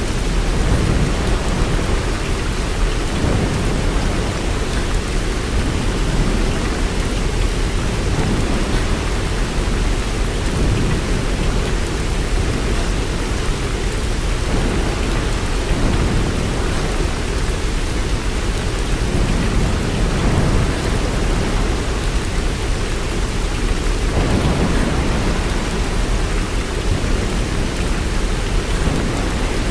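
Steady rain, loud and even, with a continuous low rumble underneath.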